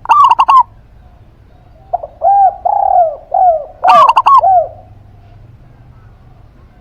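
Caged doves calling: a zebra dove (perkutut) gives a quick run of sharp, ringing coo notes at the start and again about four seconds in. A spotted dove (derkuku) coos lower, softer arching notes from about two to five seconds in.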